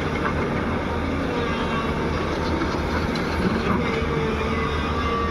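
JCB 205 excavator's diesel engine running steadily at work, a continuous low drone with a faint held higher tone over it.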